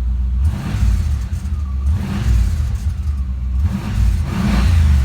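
1978 Chevrolet Malibu's engine running, a deep steady rumble that swells in level several times, the last swell near the end the loudest.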